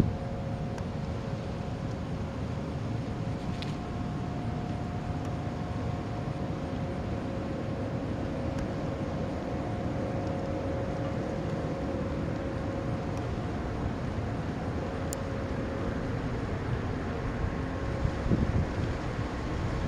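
A steady low rumble with a constant machine hum over it.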